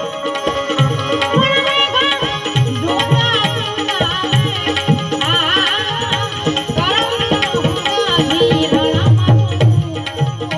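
Santvani bhajan music: tabla keeping a steady rhythm under a bending, ornamented melody line.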